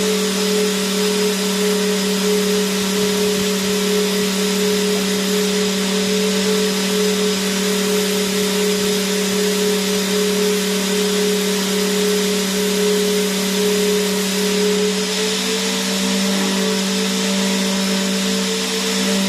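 Vacuum cleaner running steadily: an even rushing hiss with a constant motor hum. The hum's pitch shifts slightly about fifteen seconds in.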